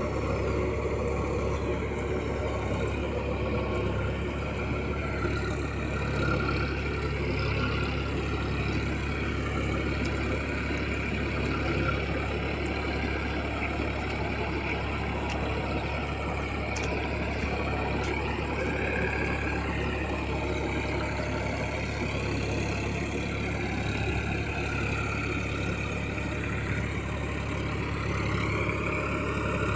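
Massey Ferguson 9000 tractor's diesel engine running steadily while puddling a muddy field, its pitch wavering only slightly.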